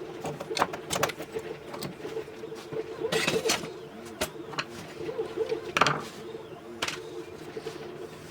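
Scattered light clicks and knocks of small parts and tools being handled, with a louder scrape or rustle about three seconds in and again near six seconds, over a steady low hum.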